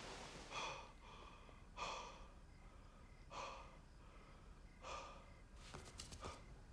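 A man breathing heavily: four loud breaths about a second and a half apart, then a few short sharp clicks near the end.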